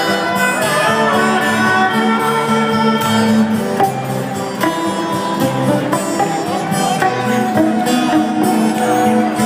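Rock band playing an instrumental passage live, with held string-instrument notes over bass and drums and no singing.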